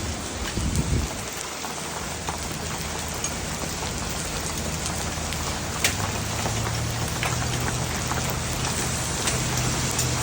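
Heavy rain falling steadily on hard surfaces, with scattered sharp ticks of drops striking close by and a low steady hum underneath.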